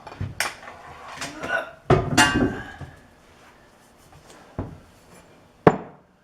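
Metal parts clinking and knocking as they are handled: a handful of scattered clanks, the loudest about two seconds in with a short metallic ring, and a sharp clink near the end.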